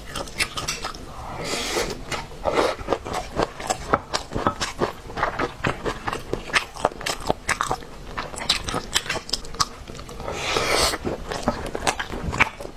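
Close-miked chewing and biting of a mouthful of rice and braised pork: a steady run of wet, irregular mouth clicks and smacks. Two longer hissing sounds come about a second and a half in and again about ten seconds in.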